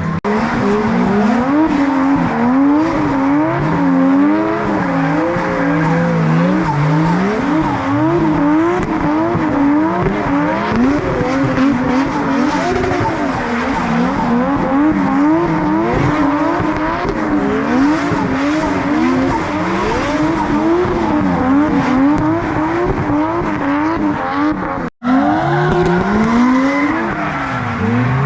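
Several drift cars in a tandem train, their engines revving up and down over one another as the drivers work the throttle through the slides, with tyres squealing. The sound cuts out for an instant near the end.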